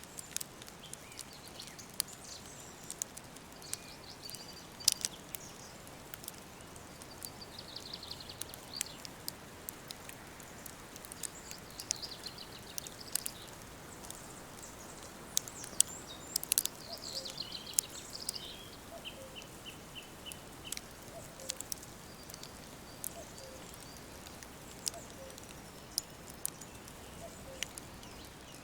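Woodland birds singing in high phrases, including a fast trill of evenly repeated notes about two-thirds of the way in. Beneath them is a steady soft hiss, with frequent sharp clicks scattered throughout.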